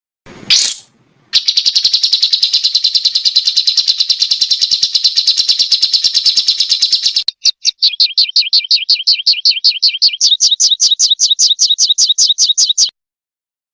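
Small songbird's rapid 'tembakan' song burst: a quick rising whistle, then a very fast high trill of about ten notes a second for several seconds, then after a brief break a run of quick down-slurred notes at a slightly slower pace, cutting off sharply.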